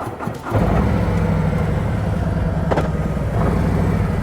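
Harley-Davidson Road King Special's V-twin engine running steadily. It comes in about half a second in, after a brief lull.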